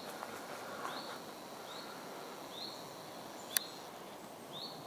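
Woodland ambience with a bird repeating a short, high chirp about once a second, and one sharp click about three and a half seconds in.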